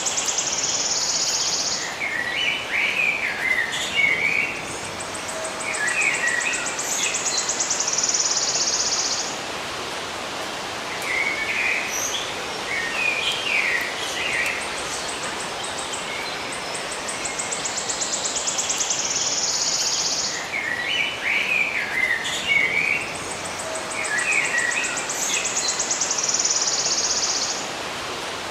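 Birds chirping and twittering in short clusters of calls, with a high, rapid trill that turns into a steady buzz coming back between them, over a constant hiss. The same passage repeats about every 18 seconds, like a looped recording.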